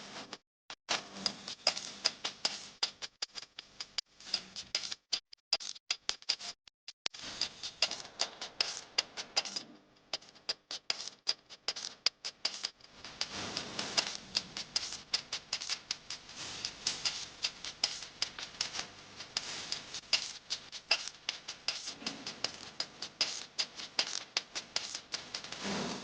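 Heavy rain: raindrops striking a hard surface in dense, irregular clicks, thickening into a steadier downpour about halfway through.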